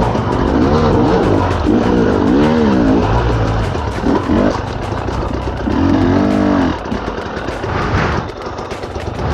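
Dirt bike engine revving up and down in repeated short bursts over a steady lower engine note, as the bike works its way up a rocky climb.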